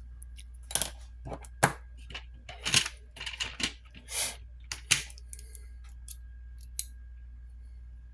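Light irregular clicks, taps and short scrapes of small tools and metal parts being handled on an opened smartphone during disassembly.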